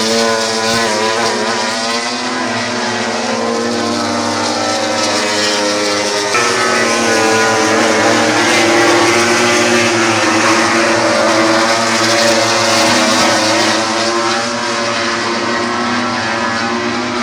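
Racing motorcycle engines running at high revs, their pitch rising and falling as they change speed, with an abrupt change in the sound about six seconds in.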